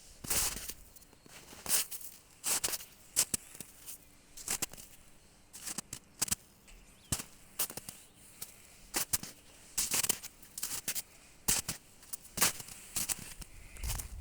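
Footsteps crunching on a forest path: sharp, irregular crackly steps, one to two a second.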